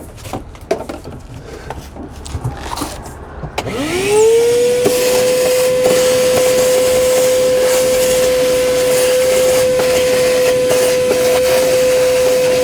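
Light handling clicks and rustling, then about three and a half seconds in a wet/dry vacuum motor starts, spins up quickly and runs steadily with a high hum and a rushing hiss, drawing water out of the flooded car interior.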